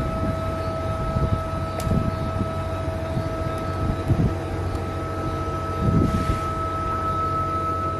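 Desktop filament extruder running: a steady high-pitched whine over a low rumble, with a few soft irregular knocks and one sharp click about two seconds in.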